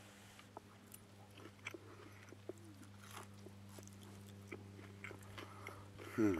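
A man chewing a mouthful of soft-boiled egg close to the microphone: faint, scattered wet mouth clicks. Near the end he gives a short falling hum.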